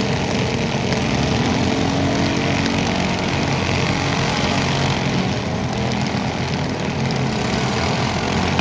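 Small lawn-tractor engine running steadily.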